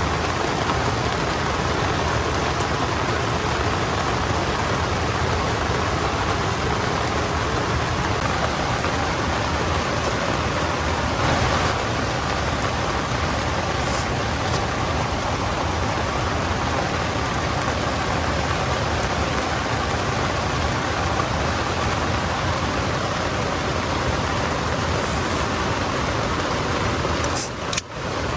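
Heavy rain pouring down in a steady, loud hiss, with a brief sharp sound and a short dip just before the end.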